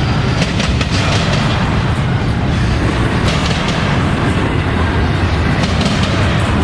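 Freight train cars rolling past steadily, wheels clicking over rail joints.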